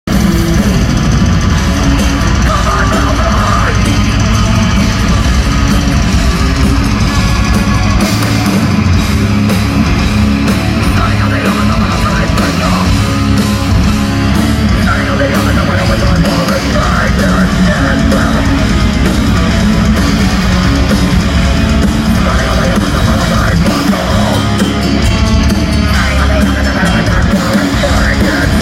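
Live heavy metal band playing a song at full volume, with guitars and drums.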